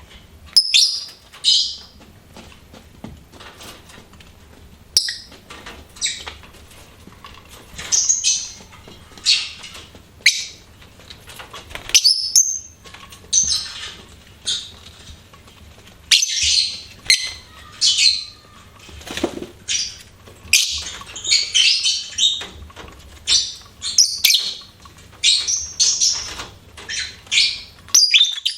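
Lovebirds chirping: short, sharp, high-pitched chirps in irregular runs, sparse at first and coming thick and fast in the second half.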